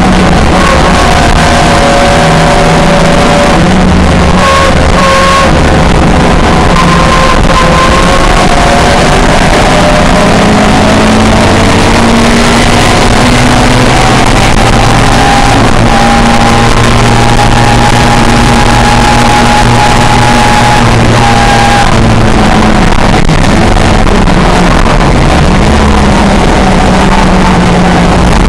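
Racing touring car engine running hard at high revs, its pitch rising and falling smoothly as the revs change, constantly loud.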